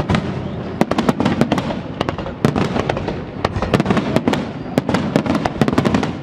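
Fireworks display: a dense run of sharp bangs and crackles, several a second, over a continuous low rumble.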